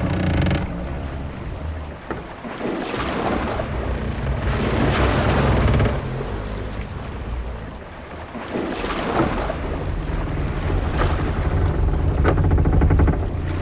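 Sea-voyage ambience: waves washing against a ship's hull in swells every few seconds, over a low rumble of wind. A few brief creaks and knocks come from the ship's timbers.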